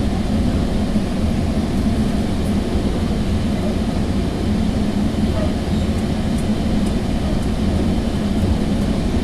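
Steady low rumble inside a Sounder commuter train's Bombardier bilevel coach running at speed between stations, with a few faint high ticks.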